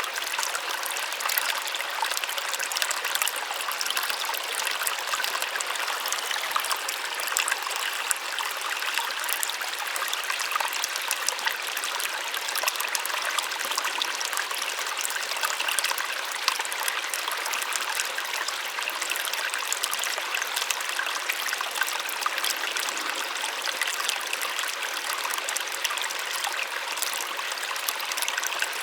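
A small waterfall splashing steadily, a continuous rush of falling water with fine trickling and splashing detail and almost no low rumble.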